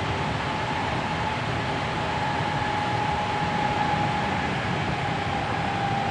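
Hankyu 7300 series electric train running at speed, heard from inside the car: a steady rumble of wheels and running gear, with a high whine that slowly falls in pitch.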